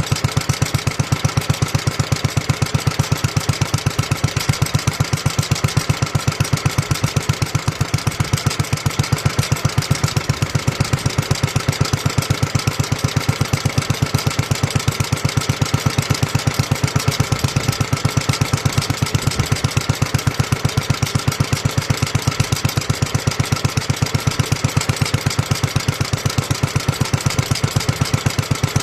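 1954 Petter A1 single-cylinder stationary engine running steadily with a rapid, even exhaust beat.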